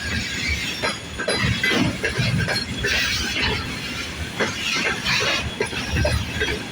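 Freight train wagons rolling past, steel wheels clattering and clanking irregularly over the rails.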